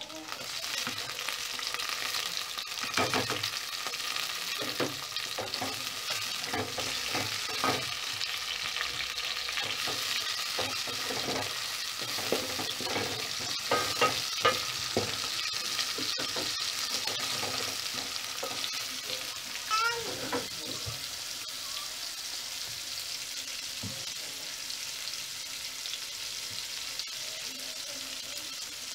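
Chopped tomatoes sizzling as they drop into hot oil and fried onions in a metal pot, frying with a steady hiss. A wooden spoon stirs and knocks against the pot again and again through the first half, with a few more knocks later.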